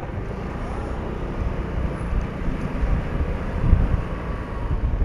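Motorcycle on the move: engine running under steady road and wind noise.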